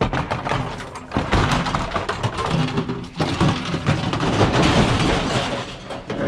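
Knocking, thudding and scraping of scrap items being handled and shoved into the back of a van, a dense run of short knocks.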